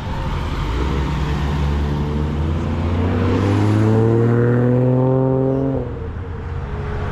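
A car accelerating hard, its engine note climbing steadily for about five seconds and getting louder, then falling away suddenly near the end as the revs drop.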